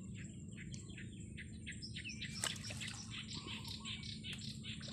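Small bird chirping over and over, about three short high notes a second, over a steady low outdoor background noise. A single sharp click about halfway through.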